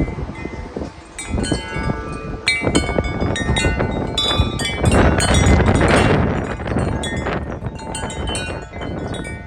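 Wind chimes clanging rapidly and irregularly in strong gusty wind, with wind buffeting the microphone. A heavy gust swells the wind noise to its loudest about five to six seconds in.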